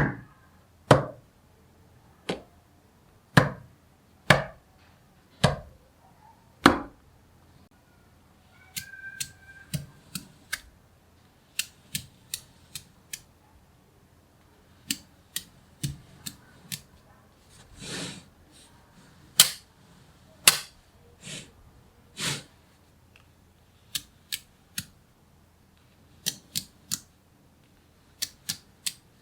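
Small neodymium magnet balls snapping together with sharp clicks, irregular, some single and some in quick clusters of two or three.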